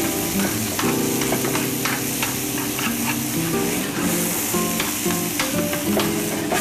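Ground chicken with onion and garlic sizzling in hot oil in a pan, stirred with metal tongs that scrape and click against the pan. Soft background music plays underneath.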